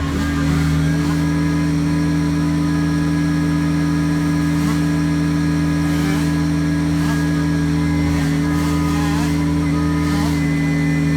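Kubota BX23s sub-compact tractor's three-cylinder diesel engine running at a steady speed.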